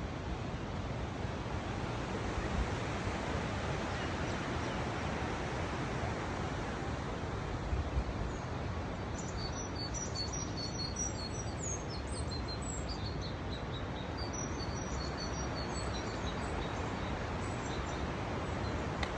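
A steady rushing outdoor noise throughout, with small birds chirping in short, high, quick calls from about halfway through for several seconds.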